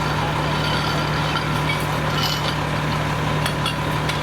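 A fire truck's engine running steadily at idle, a constant low hum, with a few faint clinks and ticks about two seconds in and near the end.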